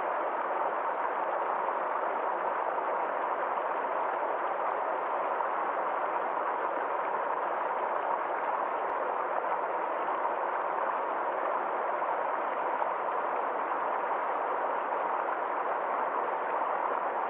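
Small forest stream flowing steadily, a constant even rush of water.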